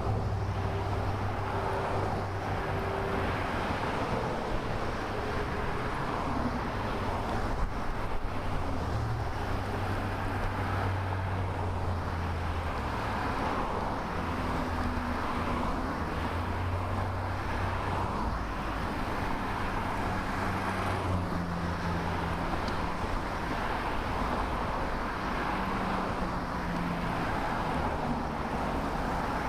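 Steady road noise of motor traffic, heard from a camera on a moving bicycle, with low engine hums that shift in pitch as vehicles pass.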